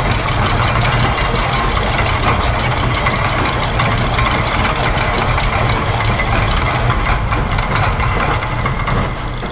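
A dense, continuous mix of looped factory machine recordings: many fast overlapping clicks and rattles over a steady low hum. The high clatter thins out for the last couple of seconds.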